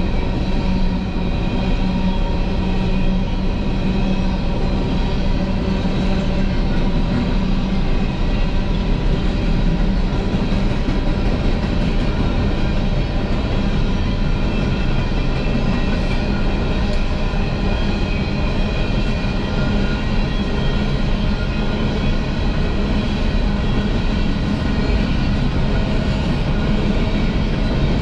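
Coal train hopper cars rolling past, a steady rumble of steel wheels on rail with thin steady tones ringing above it.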